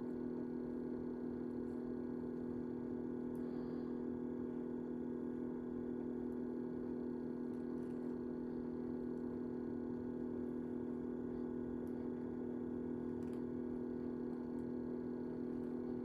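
A steady hum at an even pitch, unchanging throughout, with a couple of very faint clicks.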